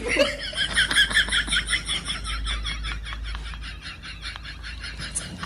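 Many birds chirping at once in short, overlapping high calls, loudest in the first couple of seconds and fading somewhat after that.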